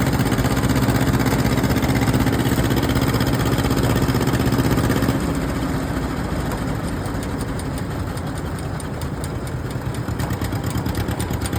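An engine running steadily; about five seconds in its hum drops away and a quieter, fast, even putter carries on.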